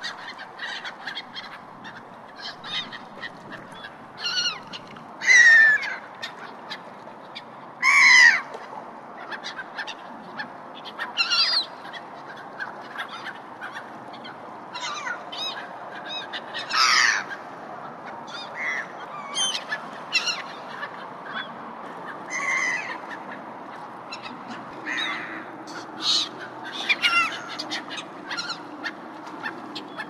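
Jungle birds calling: a steady scatter of short calls, some sliding in pitch, the loudest at about 5, 8 and 17 seconds, over a steady background hiss of forest ambience.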